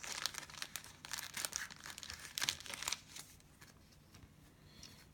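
Thin plastic crinkling and rustling in quick little crackles for about three seconds, the sound of a trading card being slid into a soft plastic penny sleeve, fading to faint handling.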